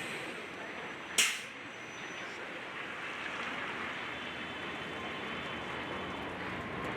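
Demolition site noise: a steady rushing noise with one sharp, loud crash or crack about a second in that fades quickly.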